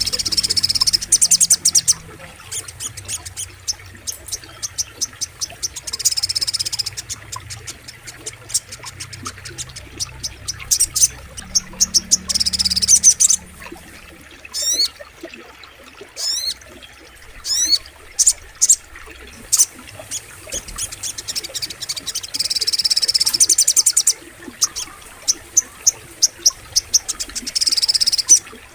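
Little spiderhunter (sogok ontong) calling in repeated bursts of rapid, high chirps, each burst a second or two long, with a few quick sweeping whistled notes in the middle.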